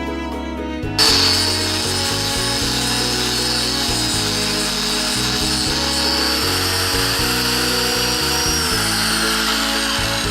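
A power tool with a buffing wheel polishing a motorcycle muffler: it starts about a second in with a high steady whine and a rubbing hiss, and the whine drops in pitch near the end. Background music plays throughout.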